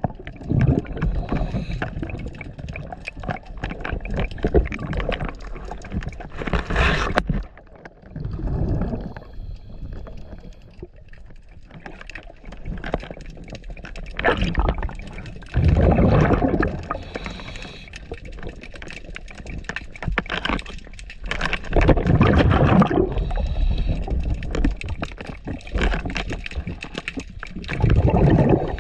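Scuba diver's regulator breathing underwater: loud gurgling surges of exhaled bubbles about every six to seven seconds, over a constant wash of water noise.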